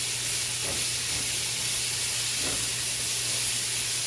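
Onions, peppers, carrots and veggie chunks frying in olive oil in a pan, sizzling with a steady hiss. A low steady hum runs beneath.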